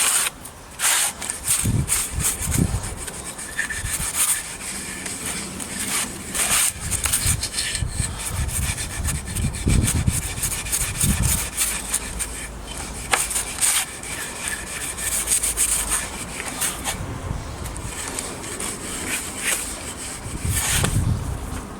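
Scotch-Brite abrasive pad scrubbing back and forth over bare, paint-stripped wood in quick, irregular strokes, roughing up the surface so the oil finish will soak in.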